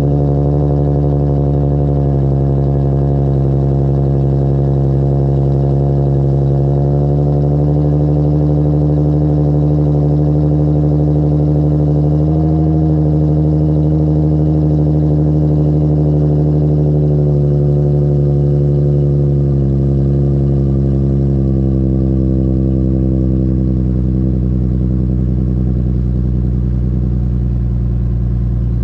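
Infiniti G37S coupe's 3.7-litre VQ37 V6 idling through a custom 3-inch single catback exhaust, just after being started. The idle speed drifts slowly lower as it settles.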